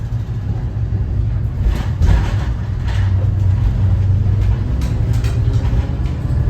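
Cummins ISB 6.7 inline-six turbodiesel of a Thomas Saf-T-Liner C2 school bus running as the bus drives, a steady low rumble with a few short rattles and knocks from the bus.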